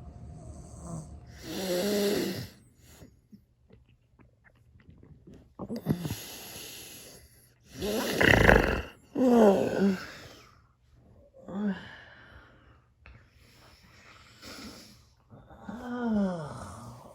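Snoring: irregular loud snores and breathy, groaning exhales, about seven of them a few seconds apart, some dropping in pitch.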